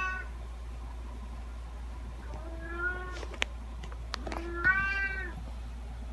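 Domestic cat meowing: the end of one meow right at the start, then two more meows about two seconds apart, each under a second long. Two sharp clicks fall between the last two meows, over a low steady hum.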